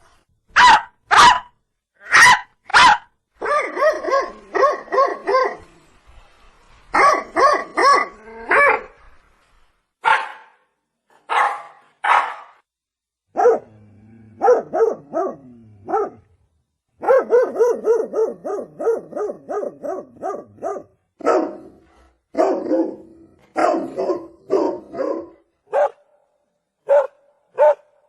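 Dog barking: a few single sharp barks at first, then quick runs of barks separated by short pauses.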